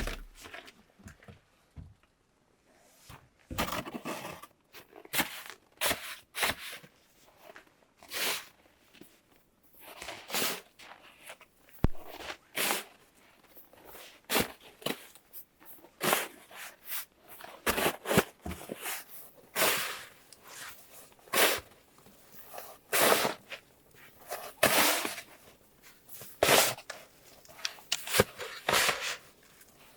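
A run of irregular short rustling and scraping noises, roughly one every second or two, like someone handling or moving things by hand.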